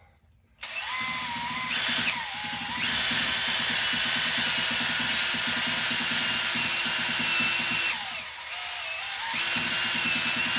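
Cordless drill spinning a three-stone cylinder hone up and down an engine cylinder bore, a steady high motor whine over fast rhythmic chatter from the stones on the cast-iron wall. This is deglazing the bore to put a crosshatch on it so new piston rings will seat. The drill starts about half a second in and dips in pitch briefly twice, about two seconds in and about eight seconds in, as it bogs under load.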